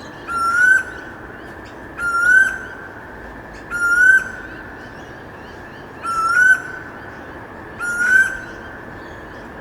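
Storm bird calling: a short rising whistled note, repeated five times about every two seconds over a steady background hiss.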